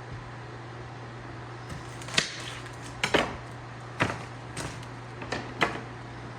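Knife chopping vegetables on a cutting board: about seven sharp, irregular chops, beginning about two seconds in.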